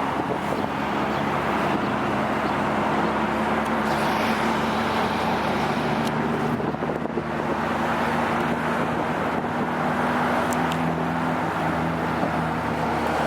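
Car engine running at steady revs under road noise while driving, its pitch shifting slightly a few times.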